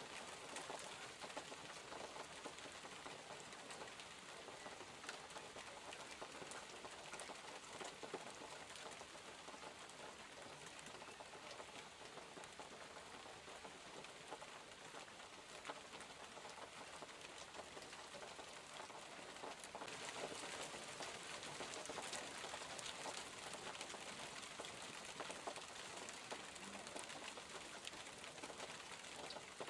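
Steady gentle rain, with many individual drops pattering on surfaces. It gets a little louder about two-thirds of the way through.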